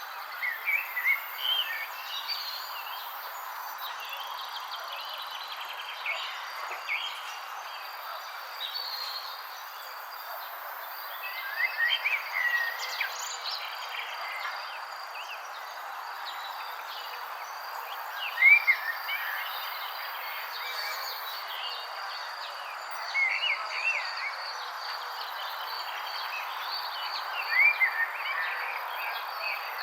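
Wild birds chirping in short clusters every few seconds, over a steady high insect trill and a constant background hiss.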